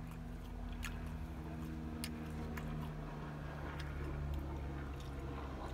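Steady low hum of an idling car engine heard from inside the cabin, with a few light clicks of a plastic utensil against a takeout food container.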